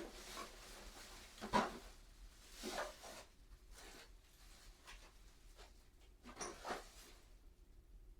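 Faint, scattered rubbing and scuffing sounds, a few soft strokes several seconds apart, in a quiet small room.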